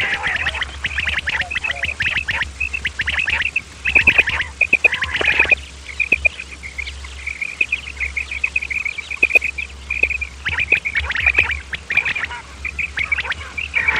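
Quail calling: fast runs of short, high-pitched notes, several a second, with louder, harsher bursts near the start and about four to five seconds in.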